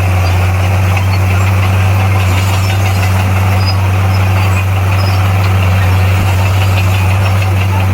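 Bulldozer's diesel engine running steadily at an even pitch, with a deep hum.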